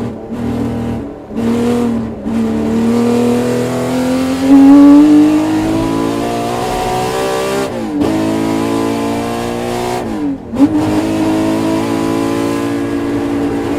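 Ferrari Tipo 168 3.0-litre V12 with six Weber carburettors, revving and accelerating. The pitch climbs steadily, then drops sharply and climbs again twice, at about eight and about ten and a half seconds in, as it shifts up through the gears.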